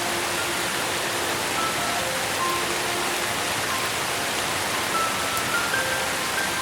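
Steady rain hiss, with a slow, soft melody of single held notes at changing pitches over it.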